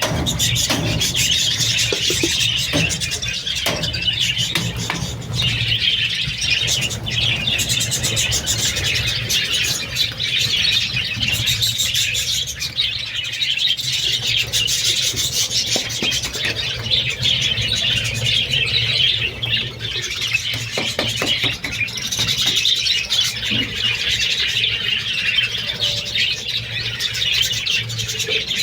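A flock of budgerigars chirping and warbling, many birds calling over one another in an unbroken chatter.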